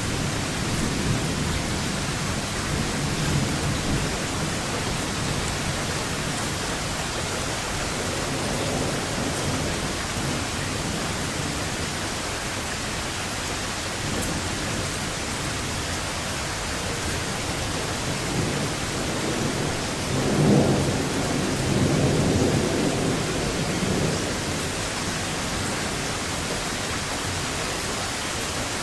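Steady rain with rolling thunder. A low rumble fades out over the first few seconds, and a louder roll of thunder comes about twenty seconds in and lasts a few seconds.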